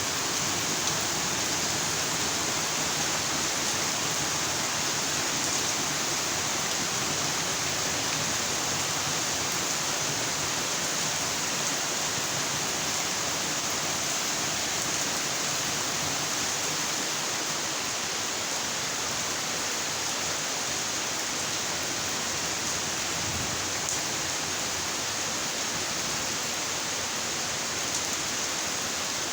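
Steady heavy rainfall, an even hiss with no separate drops or thunder standing out.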